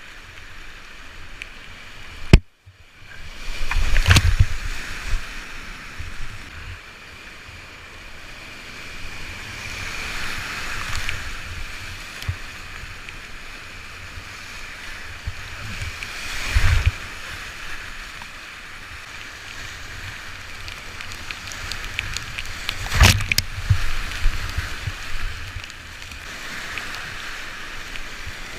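Rushing whitewater heard from a kayak on the river, a steady hiss of rapids, with louder surges and deep rumbles about 4, 17 and 23 seconds in and a sharp click a couple of seconds in.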